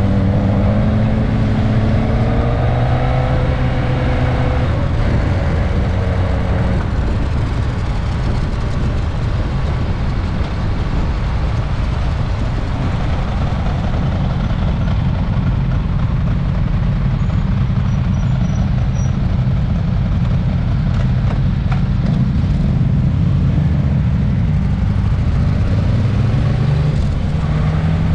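Motorcycle's inline-four engine heard from onboard while riding, with wind and road noise: the revs climb over the first few seconds, hold steady while cruising, and climb again near the end.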